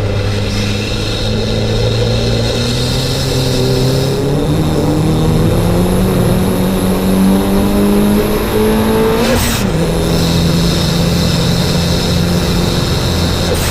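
Mitsubishi Lancer 2.0 turbo engine running under load on track: steady at first, then revving up through a gear with a high whistle over it. About nine seconds in the throttle lifts and the revs drop, with a short chatter of turbo flutter, then the engine holds steady at lower revs.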